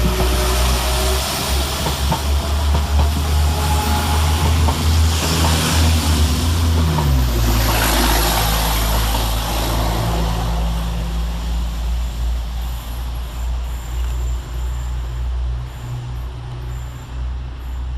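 Two coupled Class 172 Turbostar diesel multiple units pulling away, diesel engines running under power with a strong low drone. The engine note shifts about seven seconds in, and the sound eases off toward the end as the train draws away.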